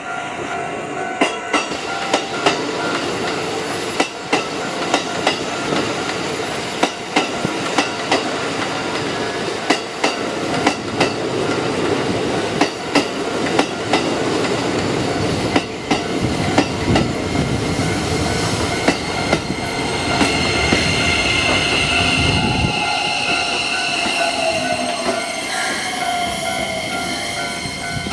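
Keikyu electric commuter trains running into a station: a rapid series of wheel clicks over rail joints and points, then from about twenty seconds in a high-pitched squeal of wheels and brakes, with a falling tone near the end as a train slows to a stop.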